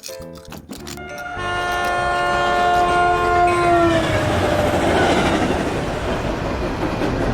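Train horn sounding a held chord that drops in pitch about four seconds in, as at a train passing, followed by the steady rumble of the train running by.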